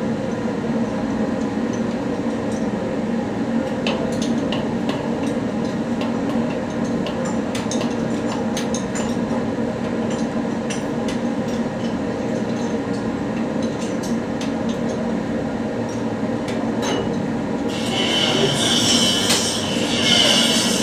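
Steady machine hum with scattered metallic clinks and taps from work on turbocharger parts. About eighteen seconds in, a loud high hiss starts and continues.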